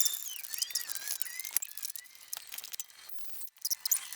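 Scattered light metallic clicks and clinks of a spanner tightening nylock nuts on a mower deck bar, with birds singing in the first second or so.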